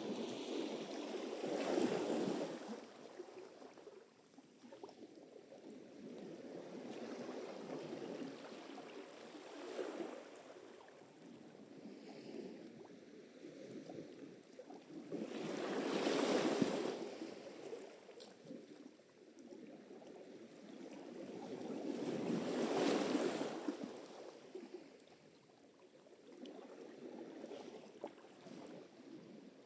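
Sea surf: waves rolling in and breaking, each one swelling to a rush of foam and then fading as it draws back, roughly every seven seconds.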